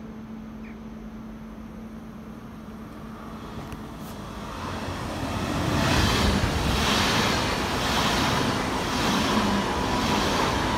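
Deutsche Bahn Intercity 2 double-deck train approaching and running past along the platform. The rolling noise of wheels on rails grows from faint to loud over the first six seconds. It then holds as a steady rumble, with a hiss that pulses about once a second as the coaches go by.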